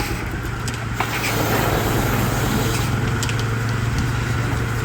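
Steam-powered sawmill running with the blade turning free between cuts: a steady low drone, with a couple of sharp knocks about a second and three seconds in.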